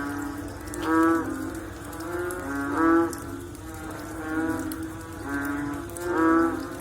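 A chorus of frogs calling after rain: short, low, moo-like calls repeating every half second or so, with at least two frogs alternating at slightly different pitches. A few calls stand out louder than the rest, about a second in, three seconds in and near the end.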